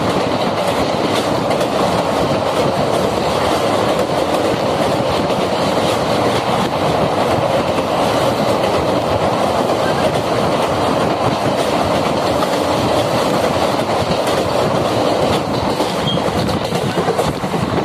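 Passenger train running at speed across a steel truss railway bridge, heard from an open coach window: the steady running noise of wheels on rails.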